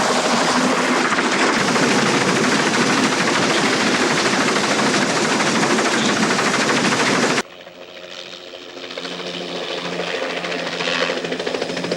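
Loud, dense rattling and rumbling of a heavy vehicle that cuts off abruptly about seven seconds in. After it comes a quieter passage with steady low tones that slowly grows louder.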